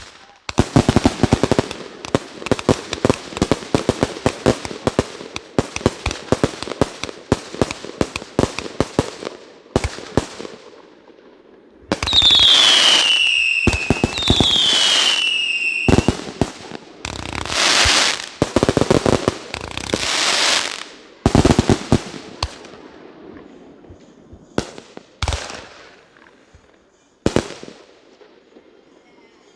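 Consumer fireworks going off: a rapid string of sharp reports, then two whistles falling in pitch over loud hissing bursts, more loud sustained bursts, and a few scattered single bangs near the end.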